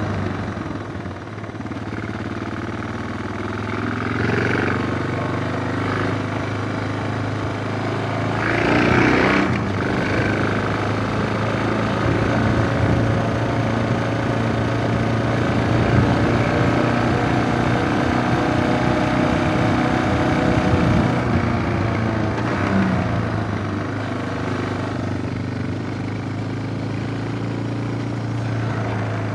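Suzuki DR650's single-cylinder engine running while riding, its revs rising and falling. A brief rush of noise comes about nine seconds in.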